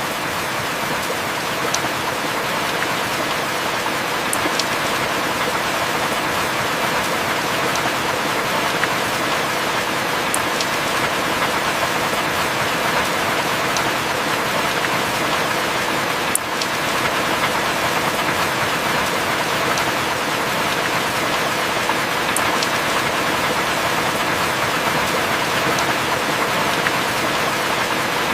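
Heavy rain falling steadily, an even hiss with a few sharp ticks of drops here and there.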